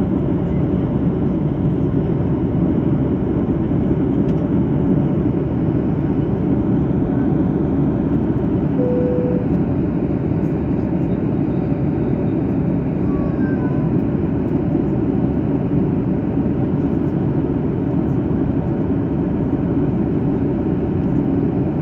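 Steady cabin noise of a Boeing 737-800 in flight: the constant rush of airflow and the drone of its CFM56-7B jet engines, as heard from a window seat. A short faint tone sounds about nine seconds in.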